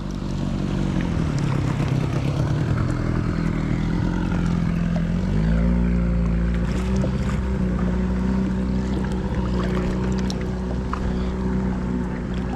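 Motorboat engine running close by. Its pitch dips over the first few seconds, then rises about five seconds in and holds steady at the higher speed.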